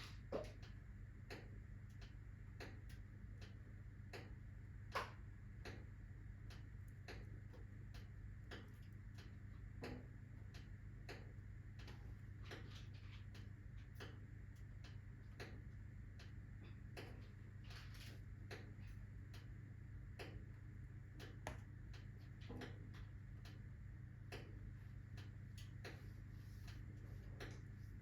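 Wood fire burning in a fireplace, crackling with irregular small pops and one louder pop about five seconds in, over a steady low hum.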